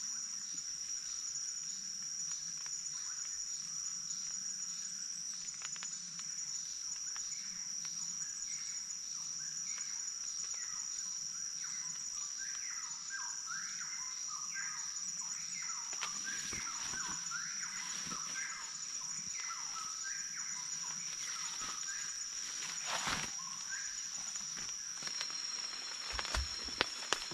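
Forest ambience: a steady, high-pitched insect drone of crickets or cicadas with a regular chirping pulse underneath, and birds calling in short quick notes through the middle. A few sharp knocks sound near the end.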